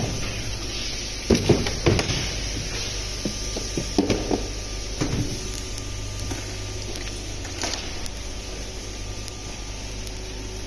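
Metal tools clattering and knocking on an engine being taken apart, in scattered bursts about a second in, around four to five seconds in, and once more near eight seconds, over a steady low hum.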